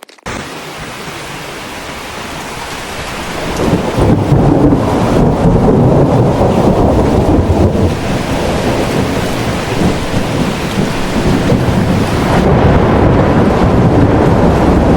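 Loud, steady noise of a strong storm wind with rain. It begins abruptly and grows louder about three and a half seconds in.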